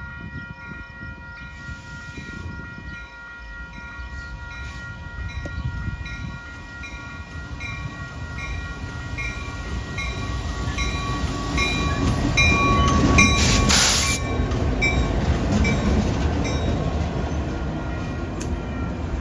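A CPKC train rolling past, its rumble building to a loud peak about two-thirds of the way through. A steady high tone sounds in the first half and fades, and a regular high ringing repeats about one and a half times a second.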